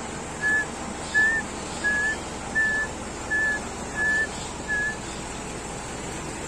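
A bird calling: about seven short, clear whistled notes at one pitch, evenly spaced at roughly one and a half a second, stopping about five seconds in.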